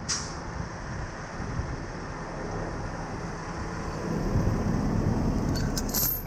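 A truck engine running with a low rumble and wind on the microphone, with a few short clicks just before the end.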